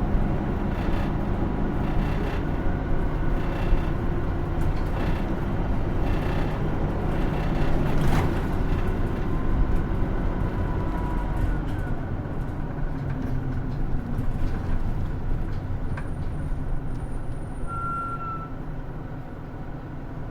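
Hino Rainbow II route bus heard from inside the cabin, its engine and road noise running steadily, then growing quieter over the second half. A short high squeal comes near the end.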